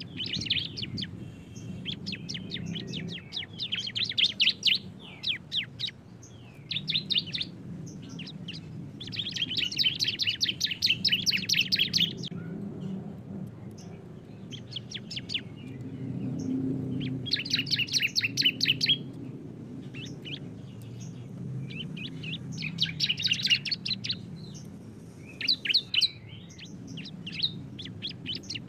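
Two bar-winged prinias (ciblek) singing fast rattling 'bren' trills, in phrases of one to three seconds with short pauses between, over a steady low hum.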